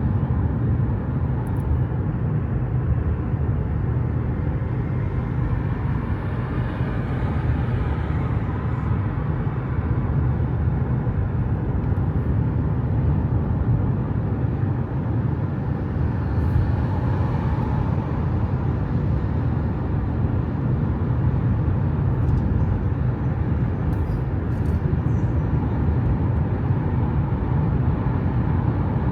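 Steady low rumble of a car on the road, with a gentle swell about seven seconds in and again around seventeen seconds.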